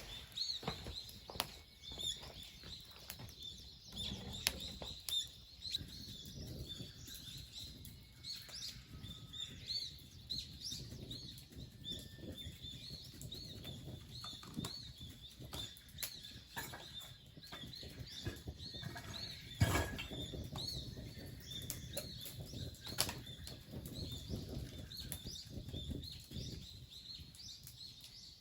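Small birds chirping over and over in short high notes, with scattered clicks, rustling and a louder knock about two-thirds of the way through.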